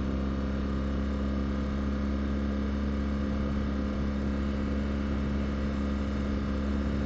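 BMW R1200GS Adventure's flat-twin boxer engine running at a steady cruising pace, its note holding even with no revving or gear changes.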